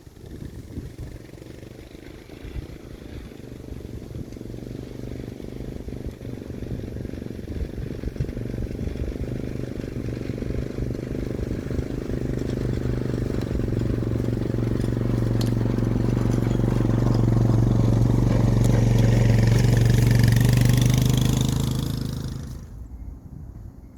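A small engine runs at a steady pitch, growing louder over about twenty seconds, then cuts off near the end.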